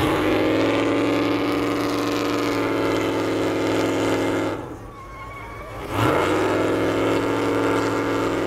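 Vehicle engine revved up and held at steady high revs for about four and a half seconds, dropping back to idle for about a second and a half, then revved and held high again.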